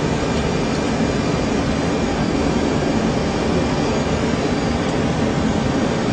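Steady cockpit noise of a Boeing 747 on the ground with its engines running: an even rushing hiss over a low rumble, unchanging throughout.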